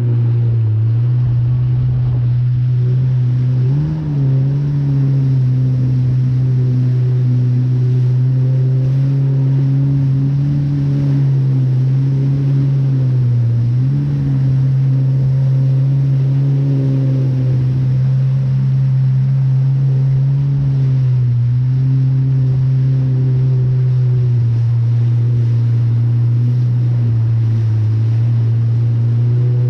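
Jet ski engine running steadily under way, with a water-and-spray rush beneath it. Its pitch dips briefly about four seconds in and again about fourteen seconds in, as the throttle eases off and comes back.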